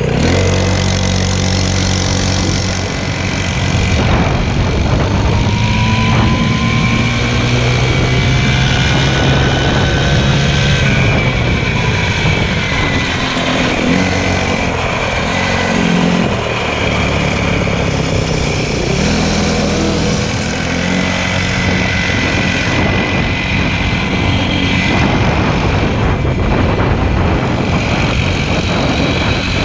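Motorcycle engine running under way, its pitch stepping up and down every few seconds with the throttle, over a steady rushing noise.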